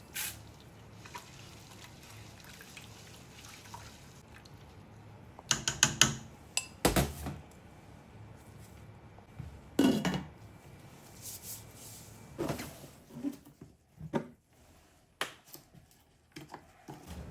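Glass beakers and utensils being handled and set down: irregular clinks and knocks, a quick cluster about halfway through and another strong knock a little later, with faint liquid sounds between.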